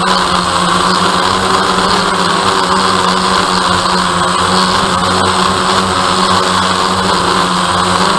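DJI Phantom quadcopter's motors and propellers running with a steady, unchanging buzz.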